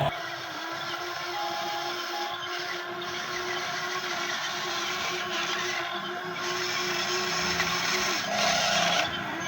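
Small electric motor of a radio-controlled excavator's hydraulic pump whining at a steady pitch, over a gritty hiss; the tone drops away about eight seconds in.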